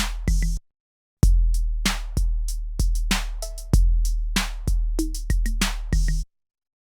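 Drum pattern played back from an Akai MPC sampler: deep kicks with long low tails, snares and hi-hats. The beat stops dead for about half a second just under a second in, starts again, and stops again near the end.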